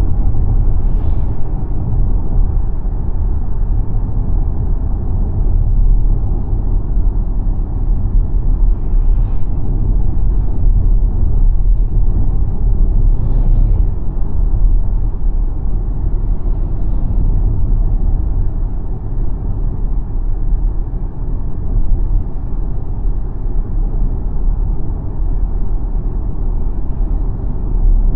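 Steady low road rumble from the tyres and wind of a moving XPENG G9 Performance, an all-electric SUV, so there is no engine note. A few faint, brief higher sounds come and go over the rumble.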